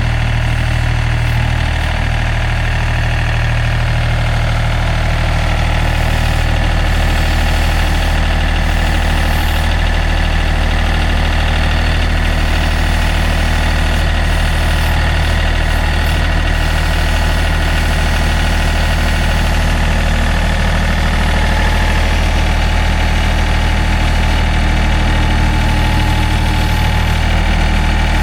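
Tractor engine running steadily with an even low engine note, its loader bucket in use.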